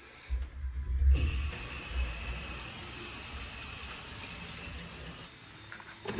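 Shower spray running: a steady hiss of water that starts abruptly about a second in and cuts off shortly before the end. Low bumps and rumbling in the first two seconds.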